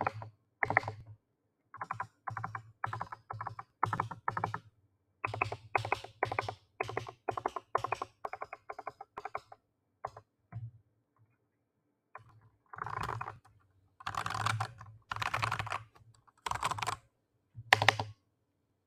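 BK98 keyboard being typed on in short bursts of keystrokes with brief pauses, each stroke a sharp click with a low thud under it. About two-thirds of the way in, the typing turns into several longer, denser runs of rapid keystrokes.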